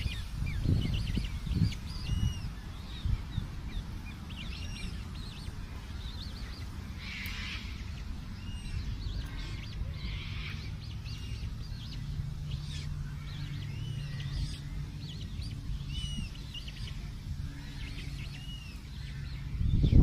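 Birds chirping: short, high, arching calls repeated roughly once a second or so, over a low rumble.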